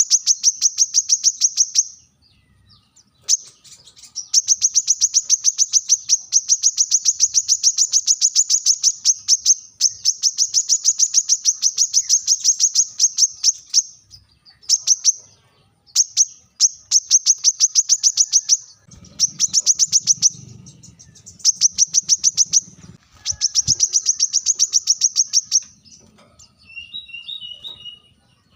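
Brown-throated sunbird (kolibri kelapa) giving its sharp, high-pitched call: long runs of rapid, evenly repeated notes broken by short pauses. It is the challenge call used to provoke rival birds.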